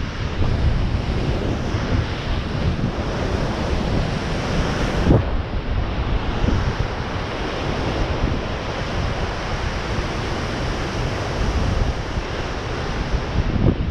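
Ocean surf washing against sea cliffs, with wind buffeting the microphone in gusts. There is a brief bump about five seconds in.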